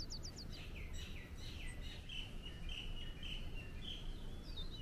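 Birds singing in tropical trees: quick falling whistles early on, then a run of short chirping notes, over a steady low rumble.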